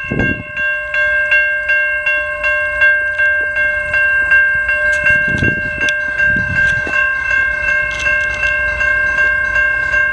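Electronic railroad crossing bell ringing in a quick, steady series of identical dings, a bright multi-tone chime. A low rumble runs underneath, swelling twice near the middle.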